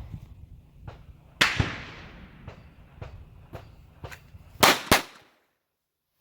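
Pistol shots at a shooting range: a loud echoing shot about a second and a half in, fainter shots scattered after it, and a quick pair of loud shots near the end, after which the sound cuts off abruptly.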